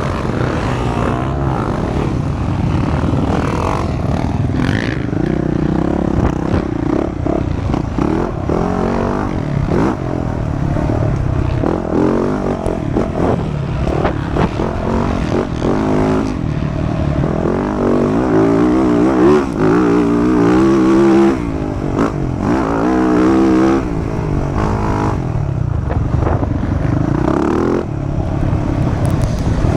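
Motocross dirt bike engine being ridden hard, its pitch rising and falling over and over with throttle and gear changes.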